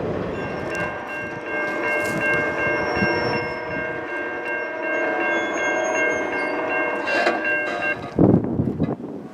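Locomotive air horn sounding one long chord of several notes for about seven and a half seconds over the rumble of a train, cutting off near the end, followed by a loud thump.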